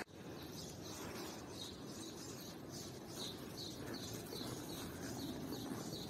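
A small bird chirping a short high call over and over, about three times a second, over a faint steady outdoor background.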